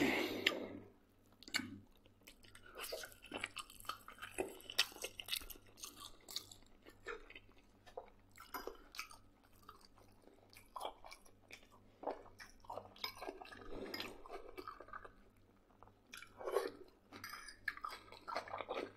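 Close-up chewing of a mouthful of pork-head sausage (brawn), with many small, irregular wet mouth clicks.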